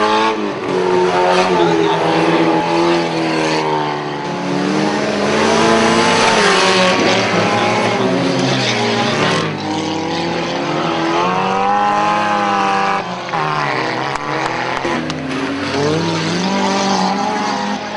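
Several car engines revving hard at once, their pitches rising and falling over one another, over a steady noisy wash, with a few short knocks around the middle.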